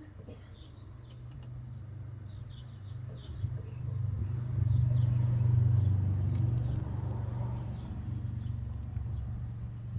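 Low vehicle engine hum that grows louder about four seconds in, is loudest around the middle and fades again, with small birds chirping.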